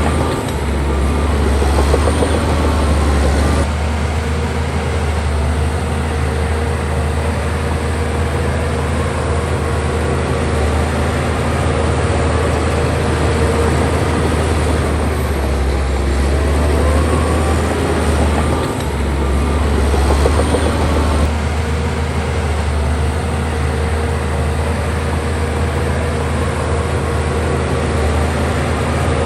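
Heavy diesel engine of a bulldozer running steadily under work, its pitch rising and falling a little now and then.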